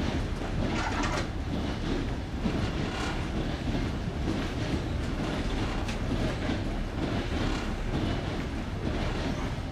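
Passenger train coach running over jointed rails: a steady rumble of wheels on the track, with the clack of the wheels striking the rail joints.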